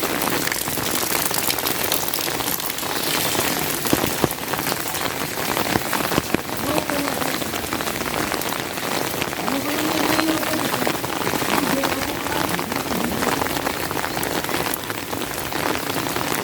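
Steady rain falling, with many sharp single drop hits close to the microphone.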